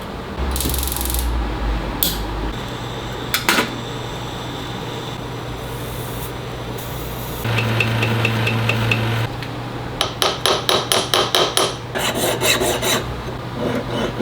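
Jeweller's bench work in short changing bursts, with a run of about eight quick hammer taps, roughly four a second, near the end, followed by a brief rapid rasping like filing.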